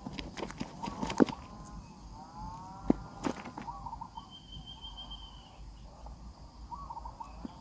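Nestlings calling in the nest: a string of short rising-and-falling cheeps, with scattered sharp clicks and knocks of movement in the first half, and a thin high whistle about four seconds in.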